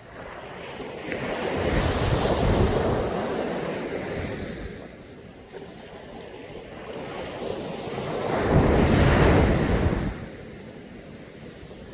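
Caribbean sea waves breaking on a sandy beach: one wave surges in and washes out about two seconds in, and a second, louder one breaks around nine seconds before fading back.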